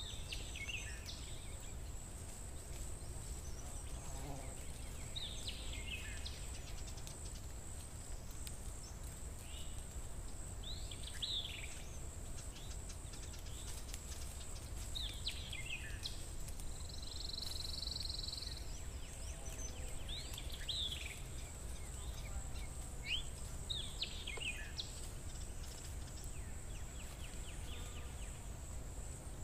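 Steady low background rumble with a bird calling every few seconds in short calls that fall in pitch. A thin, steady high-pitched whine runs underneath.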